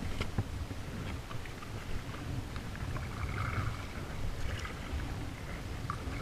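Wind rumbling on the microphone of a kayak out on the water, with scattered small knocks and clicks.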